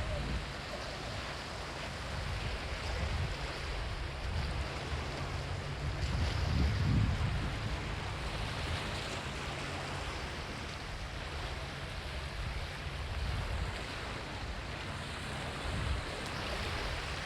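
Surf washing onto a sandy beach in a steady rush, with wind rumbling on the microphone. The sound swells louder about six to seven seconds in.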